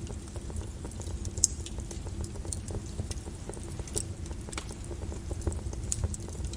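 Lava flow crackling: sharp, irregular cracks and pops over a steady low rumble, with one louder crack about one and a half seconds in.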